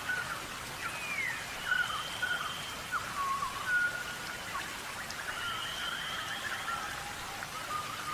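Several wild birds calling, a mix of held whistled notes and short notes that slide down in pitch, over a steady hiss.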